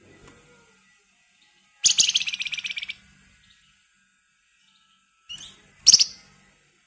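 Flamboyan songbird calling: a dense, rapid rattling trill ('ngebren rapat') about two seconds in that lasts about a second, then a short call and a loud sharp note near the end.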